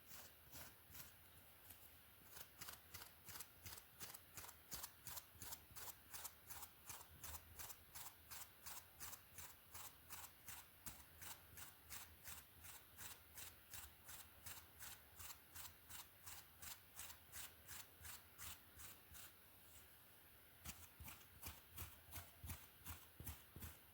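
A hairbrush drawn through hair in quick, even strokes, about two or three a second, soft and bristly. It pauses briefly near the start and again about twenty seconds in.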